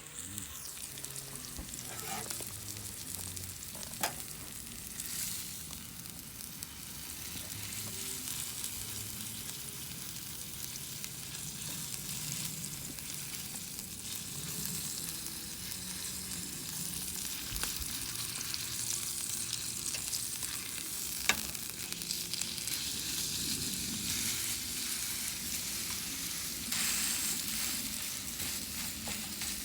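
Food sizzling in a hot pan: a steady frying hiss with a few sharp pops.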